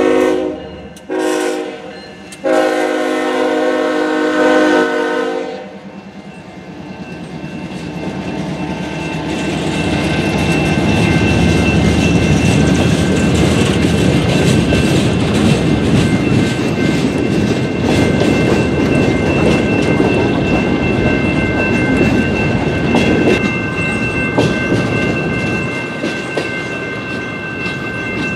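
Norfolk Southern diesel locomotive horn sounding a short blast and then a long blast for the grade crossing. Then the freight cars roll past, a steady rumble with wheels clattering over the rail joints, while the crossing bell rings on in a steady high tone.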